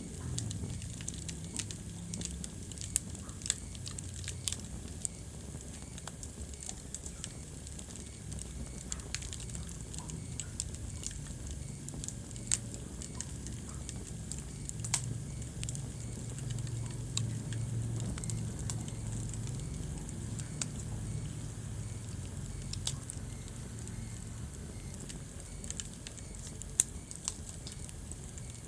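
Wood fire burning in a fireplace, crackling with frequent sharp pops and snaps over a steady low rumble of flame.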